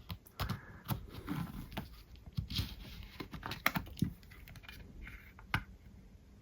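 Irregular small clicks, taps and short scraping and crinkling noises of small parts and tools being handled on a disassembled iPhone 5s, with one sharper click near the end.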